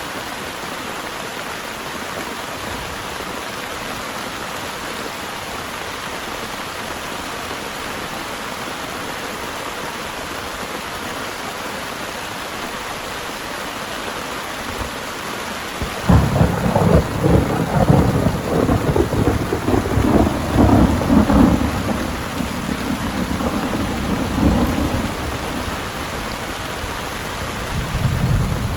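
Heavy rain falling steadily. A little over halfway through, thunder breaks out suddenly and loudly, rumbling for several seconds before easing back. A second rumble begins near the end.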